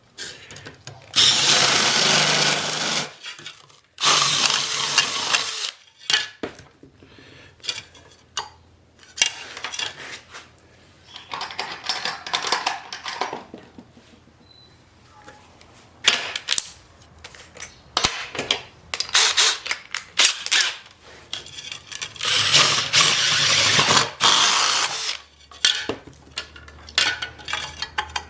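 Power tool running in bursts of two to three seconds on metal workpieces, with clinks and clanks of metal parts being handled in between.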